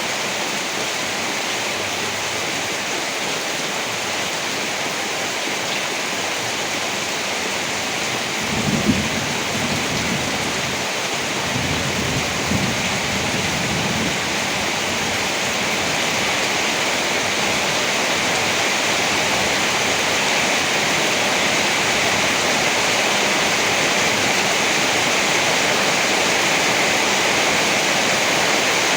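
Steady rain, with a clap of thunder about nine seconds in that rolls on as a low rumble for about five seconds.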